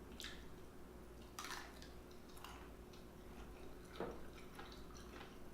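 Close-miked eating sounds: scattered wet chewing smacks and mouth clicks, with a sharper click about four seconds in, over a faint steady hum.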